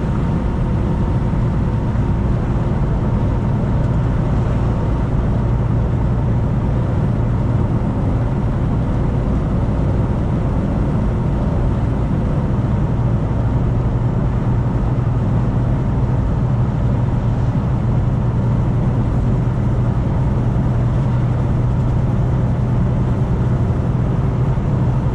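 Semi-truck cab interior at highway cruising speed: a steady, unbroken engine drone and road noise.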